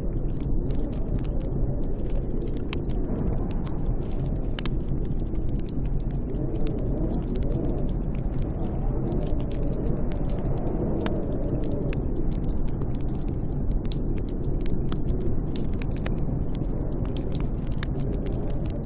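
Snowstorm wind blowing steadily with a low rumble and a wavering howl that rises and falls, heard from shelter. Many small, irregular clicks and crackles run through it.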